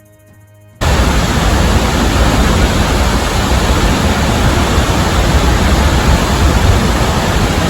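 Waterfall roaring: a loud, steady rushing that cuts in abruptly about a second in.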